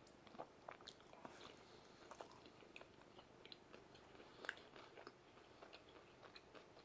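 A man chewing a mouthful of pizza: faint, scattered small wet clicks and smacks of the mouth, close to the microphone.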